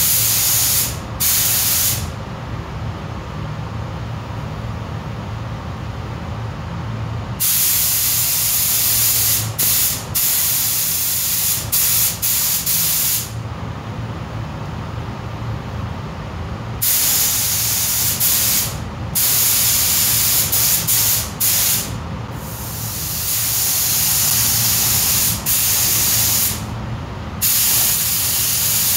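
Compressed-air paint spray gun triggered in repeated passes: a high hiss that starts and stops sharply, each pass lasting from under a second to about six seconds. A steady low hum runs underneath.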